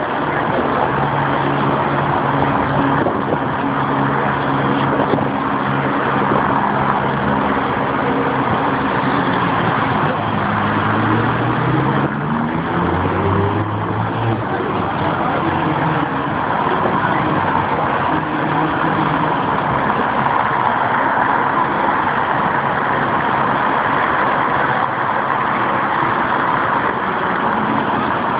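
Engines of team cars driving slowly past in a line, one climbing in pitch as it accelerates about eleven to fourteen seconds in, over a steady background of outdoor noise.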